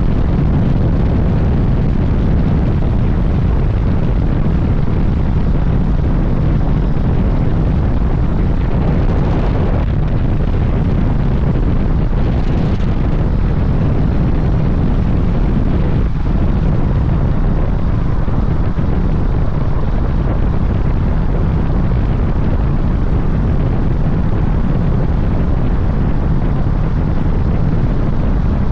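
Suzuki GSX-S1000GT motorcycle under way: its inline-four engine running steadily beneath a heavy rumble of wind on the microphone.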